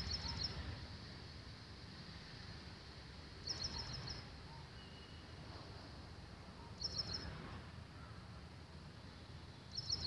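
A bird's short, quick series of high chirping notes, each about half a second long, repeating four times about every three seconds, over a low wind rumble on the microphone.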